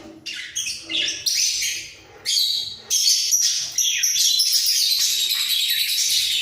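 Budgerigars chattering: scattered short chirps at first, then from about three seconds in a continuous, dense warbling chatter.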